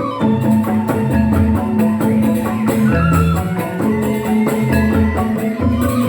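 Joged bumbung gamelan playing: bamboo xylophones (tingklik) struck in fast interlocking patterns over a drum beat.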